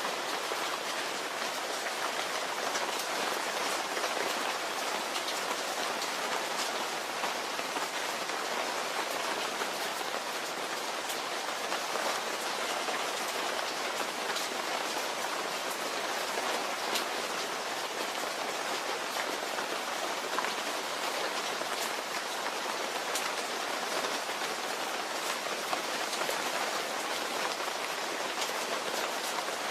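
Steady rain falling, an even hiss of many drops with fine individual drop ticks throughout.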